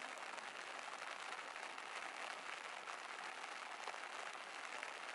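Soft, light rain falling steadily: a faint, even hiss of many small drops.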